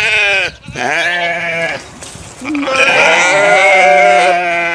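Sheep bleating: three loud baas, the first short and wavering, the second about a second long, and a long held one starting near the three-second mark.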